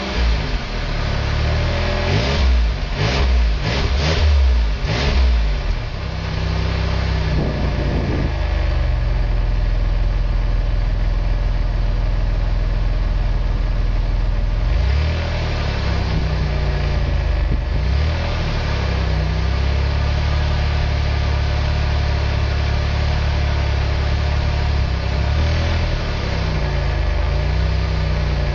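Chrysler Voyager's 3.3-litre V6, fitted with a 'half pipe' exhaust, revved in several quick blips in the first few seconds and once more shortly after. It then settles into a steady idle with a couple of light blips of the throttle.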